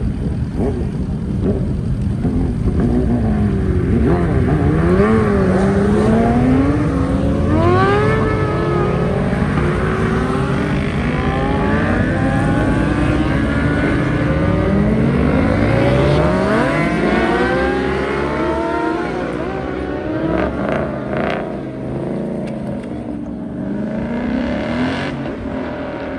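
Several car engines revving and accelerating away one after another, their pitch repeatedly rising and falling. The engines are busiest through the middle and thin out after about twenty seconds.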